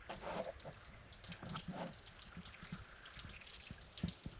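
Faint trickling and dripping water from a small woodland waterfall or creek, an irregular patter of small drips.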